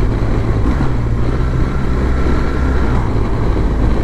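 BMW R1200GS boxer-twin engine running steadily under way, with road noise and a low, even drone.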